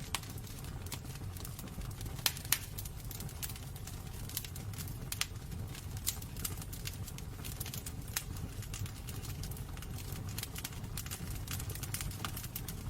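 Wood fire burning in a fireplace: irregular sharp crackles and pops over a steady low rumble of the flames, with two louder pops about two and a half seconds in.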